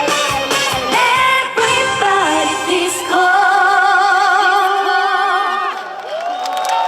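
Female trot singer's live vocal over a pop backing track at the end of a song: the beat stops about three seconds in and she holds a long final note with vibrato.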